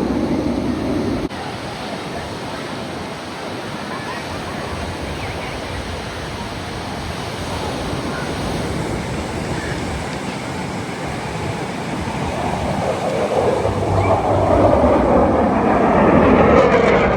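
A steady rush of surf and wind. A louder aircraft sound cuts off abruptly about a second in, and in the last few seconds another aircraft approaches, growing louder and sweeping in pitch.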